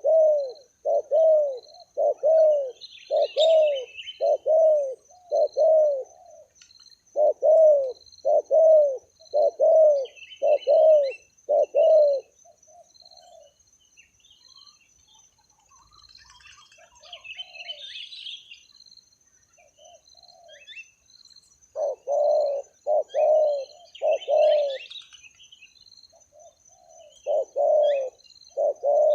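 Spotted dove (tekukur) cooing in runs of repeated low notes, about one to two a second, with a long pause in the middle. Small birds chirp high above it, and a steady high-pitched hum runs under everything.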